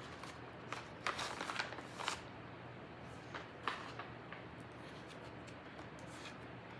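Faint rustling and a few light taps: a cluster about a second in and two more a little past the middle.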